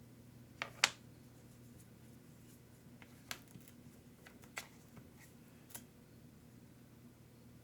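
Small parts of an RC truck clicking and tapping as they are handled and fitted: a sharp double click about a second in, then three softer clicks spread over the next few seconds, over a steady low hum.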